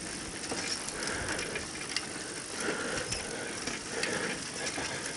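Steady mechanical rattling with a short squeak recurring about once a second, as from something moving along.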